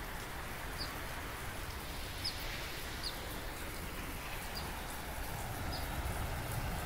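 A small bird repeating a short, high chirp every second or so, over a steady background rush.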